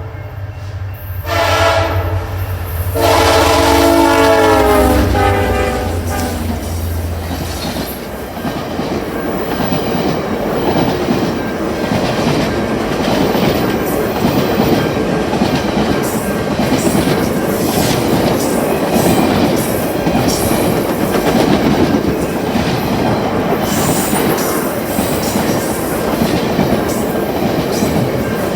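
Diesel locomotive horn sounding three blasts, the last and longest dropping in pitch as the locomotive goes by, over the low engine rumble. Then a long train of cars rolls past steadily, wheels clicking over the rail joints.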